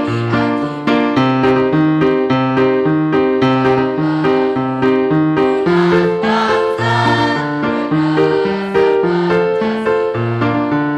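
Keyboard playing the march accompaniment: sustained chords over a bass line that steps with a steady beat. Wavering voices, likely the choir, come in briefly around the middle.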